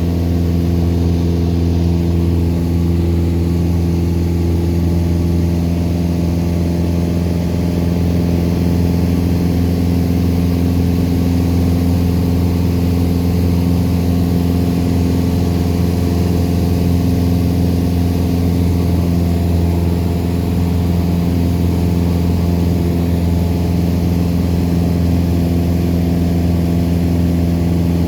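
Cessna 172's piston engine and propeller running at steady power, an unbroken drone with a strong low hum.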